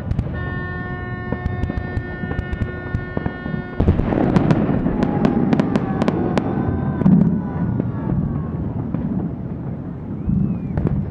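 Fireworks display: many sharp bangs and crackles over a dense noisy din, with a few gliding whistles. For the first few seconds there are only steady held tones, which stop abruptly when the bangs begin.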